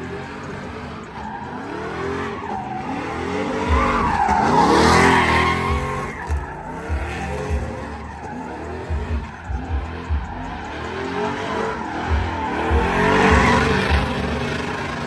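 A pickup truck's engine revving up and down again and again, with tires squealing in two loud swells: one about four seconds in and one near the end.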